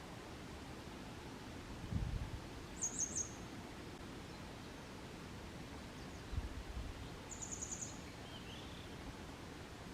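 Grey wagtail singing: two short, very high, rapid trills about four seconds apart. Two brief low rumbles come in between, over a faint steady outdoor hiss.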